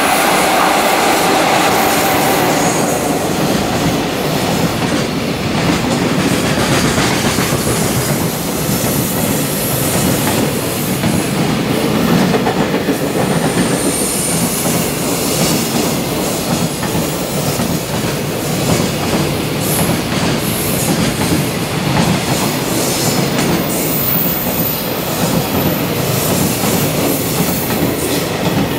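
A container freight train hauled by an EF66 electric locomotive running through a station: the locomotive's whine fades in the first couple of seconds, then a long string of container wagons rumbles and clatters over the rail joints, with a few brief high wheel squeals.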